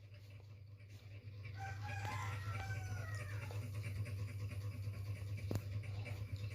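A rooster crowing once, faint and drawn out over about two seconds, over a steady low electrical hum.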